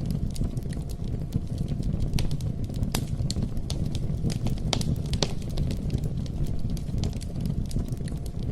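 Campfire crackling: irregular sharp pops and snaps, several a second, over a steady low rush from the burning fire.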